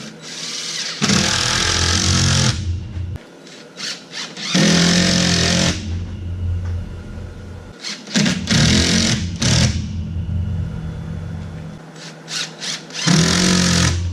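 Cordless drill driving screws into a wooden board, in four short runs of a second or so each with pauses between.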